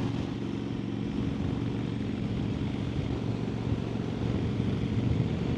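Harley-Davidson Sportster XL1200N's air-cooled V-twin engine running steadily at cruising speed, with a constant rush of wind and road noise.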